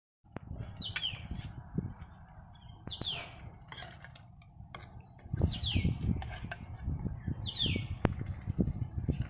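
A bird calling over and over, one short downward-sliding call about every two seconds. Under it are low rumbling, louder in the second half, and a few sharp clinks of a steel ladle against the pot.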